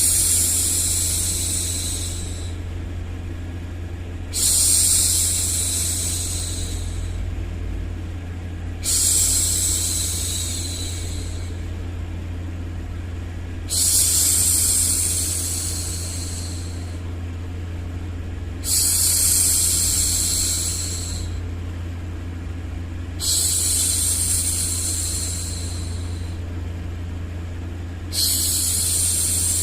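A woman's voice hushing 'shhh' seven times, each shush starting strongly and fading over about two seconds, one every four to five seconds, over a steady low noise.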